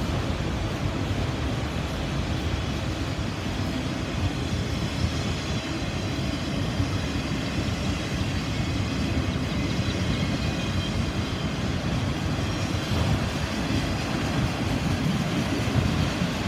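Freight train of autorack cars rolling past at steady speed: a continuous low rumble and clatter of steel wheels on the rails.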